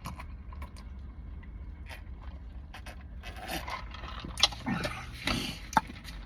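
Eating sounds: chewing and mouth clicks with brief rustles, busier in the second half, over a low steady hum.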